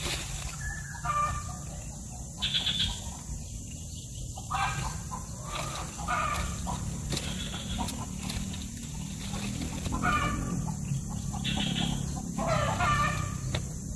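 A bird making short, harsh calls about every one to two seconds, over a steady low hum.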